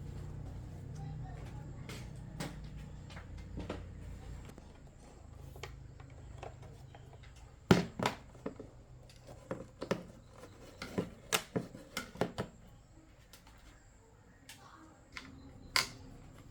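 Clatter of hard objects being handled: a quick run of sharp clicks and knocks over about five seconds, and one more near the end. Under it a low hum fades out about four seconds in.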